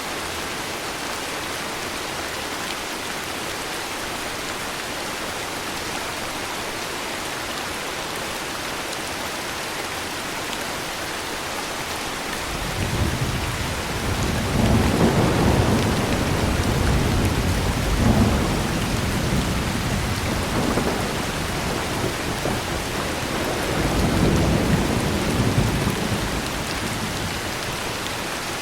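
Heavy rain falling steadily, joined about halfway through by a long, low rolling rumble of thunder that swells several times and fades out near the end.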